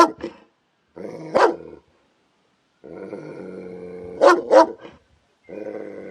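A dog growling and barking in short separate clips: each is a steady growl broken by one or two sharp, loud barks, with dead silence between the clips.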